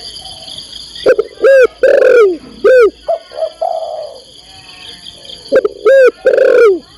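Spotted dove cooing. There are two loud bursts of arched, rise-and-fall coo notes, one about a second in and one near the end, with a softer coo between them. The call is a female calling to a male.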